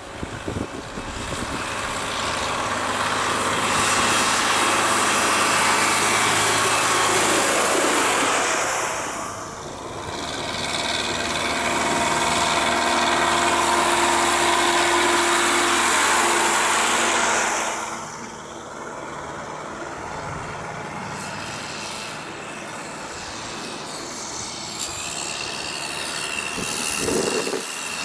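Tractor engines running as tractors drive past, the sound swelling loud twice as they pass close, with a brief dip between, then settling to a lower steady drone.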